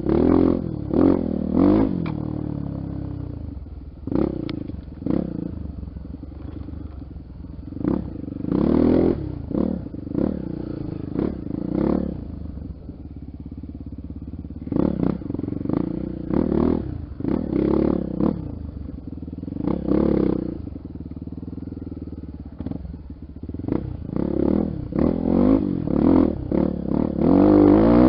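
Off-road motorcycle engine being ridden, its revs repeatedly rising and falling as the throttle is opened and closed in short bursts.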